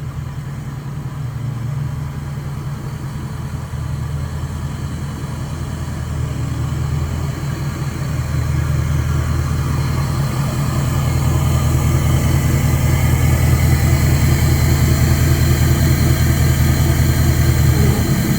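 Diesel engine running through a 5-inch straight-pipe exhaust, with the sound heavy in the low end and growing steadily louder.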